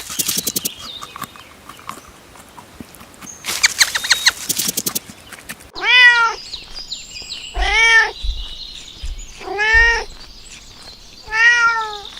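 A domestic cat meowing four times, each an arching call about half a second long, spaced about two seconds apart. Earlier, a few seconds in, there is a shorter shrill trembling call.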